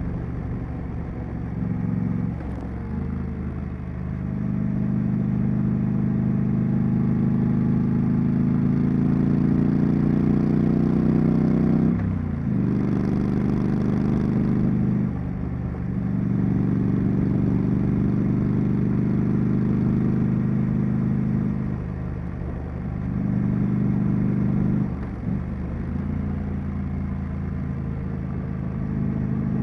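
Triumph Street Scrambler's 900 cc parallel-twin engine and exhaust on the move, pulling steadily and rising in pitch, with short dips in the engine note about five times as the throttle is closed for gear changes.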